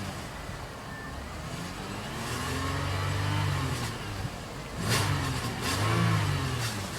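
Toyota Sienna's 3.0-litre V6 revved up and let fall back: one longer rev in the middle, then two quicker blips near the end. The engine pulls up smoothly and sounds healthy.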